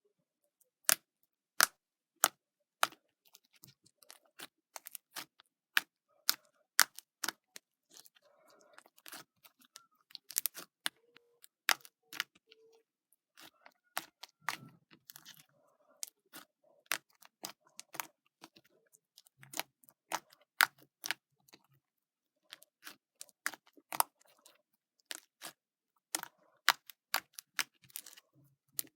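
Slime being squished and stretched by hand, giving a long run of sharp pops and clicks at irregular intervals, one to three a second.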